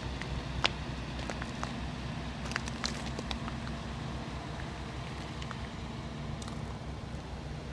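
A large diesel engine idling with a steady low throb, with scattered light clicks and crunches over it, like footsteps on gravel.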